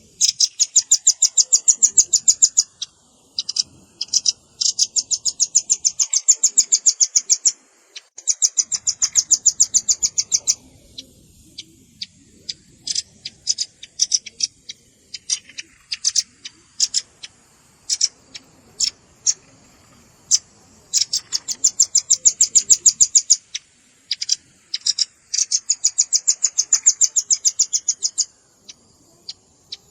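Velvet-fronted nuthatch calling: rapid runs of sharp, high chips, each run lasting a couple of seconds, with scattered single chips in the gaps between runs.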